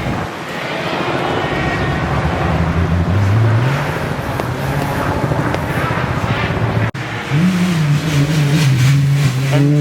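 Rally car engine running hard, its note climbing about three seconds in as it accelerates. After an abrupt cut near seven seconds, a second rally car engine revs up and down.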